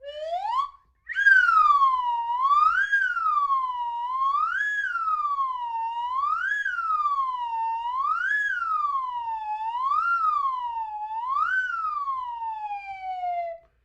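Siren sound effect in a police-style wail: a short rising whoop that cuts off, then a tone sweeping up and down about seven times, roughly once every two seconds, before falling away near the end.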